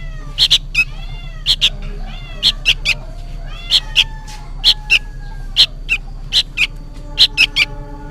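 A young sooty-headed bulbul (kutilang) calls noisily and without pause, giving short, sharp, shrill calls about two a second, often in pairs, over a steady low hum. The calls sound like a fledgling calling for its parent.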